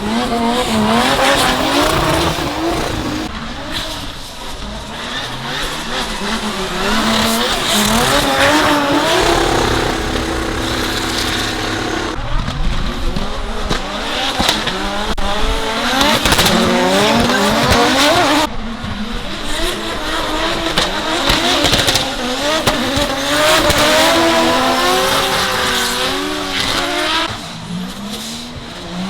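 Drift cars' engines revving hard and falling away again and again through throttle blips and shifts as the cars slide around a wet track, over a hiss of tyre and spray noise. The sound changes abruptly twice, about twelve and eighteen seconds in.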